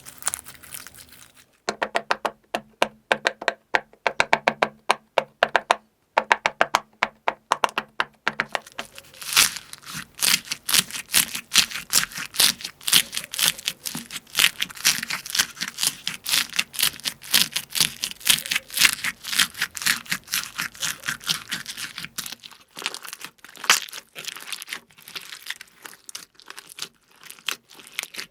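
Slime being squeezed and poked by hand, making rapid crackling and popping clicks. The clicking is densest through the middle and thins out near the end.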